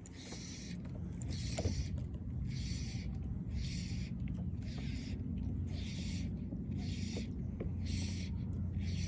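Fly line being stripped in through the rod's guides, a short zipping hiss about once a second in a steady rhythm, over a low rumble of wind and water.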